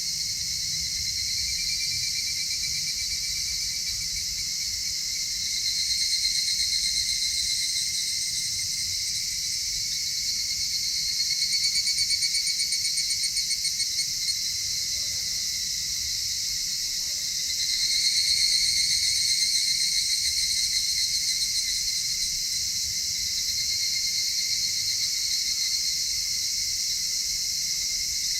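Insects singing in chorus, several overlapping high-pitched trills at different pitches, steady but swelling louder at times, with a rapidly pulsed trill for a few seconds near the middle.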